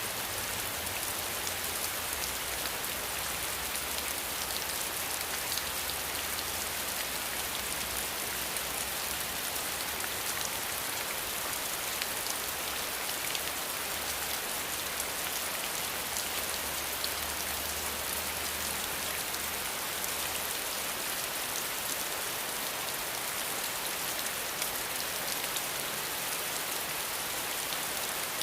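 Steady rain with fine patter of individual drops, and a faint low rumble underneath that fades out about twenty seconds in.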